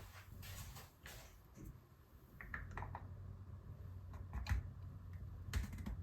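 Typing on a computer keyboard: irregular keystrokes with a couple of heavier knocks about four and a half and five and a half seconds in.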